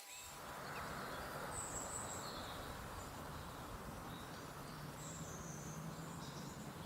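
Outdoor ambience: a steady rushing background noise with small birds chirping now and then.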